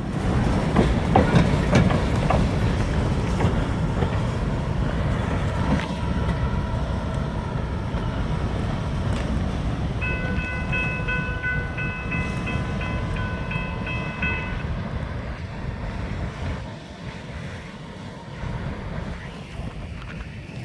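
Freight train rolling past, its wheels clacking over the rail joints, the rumble slowly fading toward the end as it moves away. Around the middle, a steady high ringing tone holds for about four seconds.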